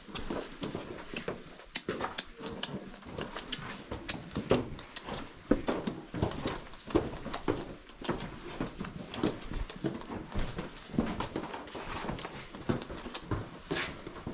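Irregular scuffs and taps of shoes and hands on sandstone during a rock scramble, coming as many short knocks at no steady rhythm.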